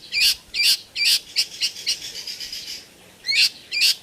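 Caged songbird calling over and over in short, sharp chirps, about two or three a second, with a brief pause about three seconds in.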